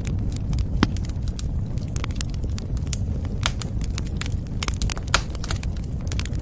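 Wood fire burning in a fireplace, crackling and popping at irregular intervals over a steady low rumble of the flames.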